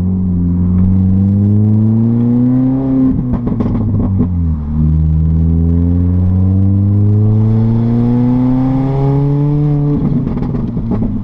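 Straight-piped exhaust of an R53 Mini Cooper S's supercharged 1.6-litre four-cylinder, with the muffler deleted, pulling hard through the gears. The pitch climbs, drops at an upshift a few seconds in, climbs again for several seconds and breaks at a second shift near the end.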